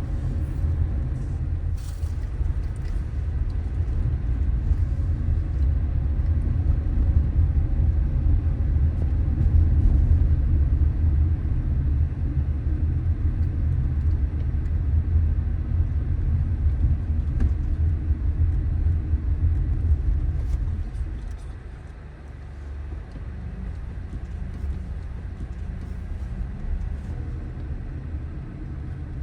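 A car driving on city streets, its low road and engine rumble steady, then dropping to a quieter rumble about two-thirds of the way through as the car eases off.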